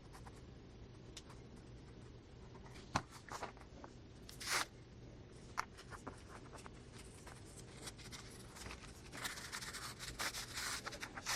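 Faint sounds of hands working on a paper journal page while attaching ruffled fabric trim: scattered light taps and clicks, a short rip about four and a half seconds in, and a run of rustling near the end.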